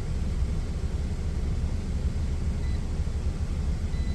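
Steady low rumble of an idling truck engine, with a faint thin high tone coming in about two-thirds of the way through.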